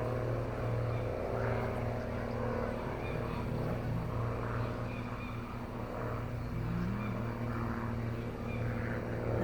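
Steady low engine hum with several held tones, heard from inside a car's cabin.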